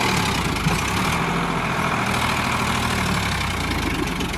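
Sonalika 745 DI tractor's diesel engine running steadily.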